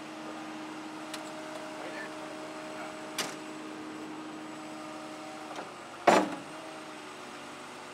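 Bobcat skid-steer loader running with a steady hum, with a couple of light clicks and one loud, short clunk about six seconds in.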